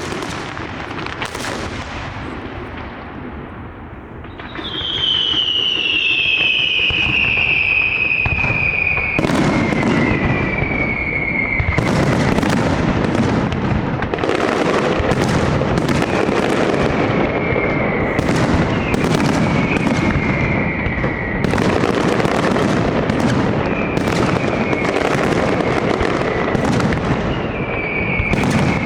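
Large night fireworks display: dense shell bursts and crackling, growing louder about four seconds in, with shrill whistles that slide slowly down in pitch over the bangs.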